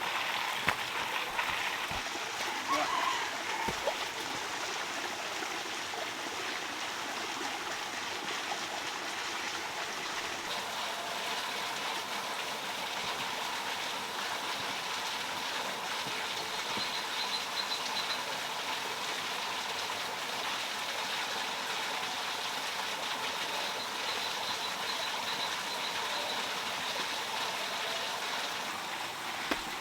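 Water running steadily, with a few light knocks in the first few seconds.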